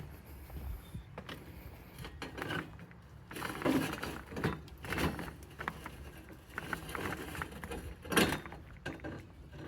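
Irregular knocks, scuffs and rattles of things being handled and moved about, with a sharp knock about eight seconds in.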